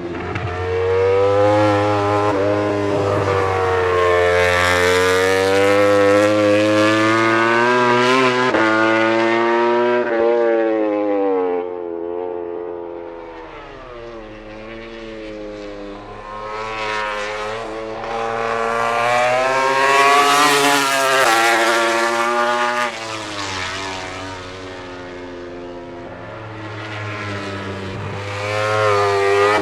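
Four-cylinder MotoGP prototype race bikes at high revs going past on the circuit. The engine pitch climbs and then drops back again and again through gear changes, and the sound swells loudly three times as bikes pass.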